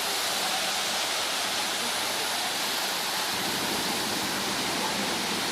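Waterfall splashing and rushing: a steady, loud wash of falling water.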